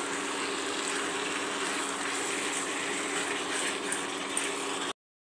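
Chicken pieces sizzling steadily as they fry down in oil with onions and spices in a nonstick pan, stirred with a spatula, over a steady low hum. The sound cuts off suddenly near the end.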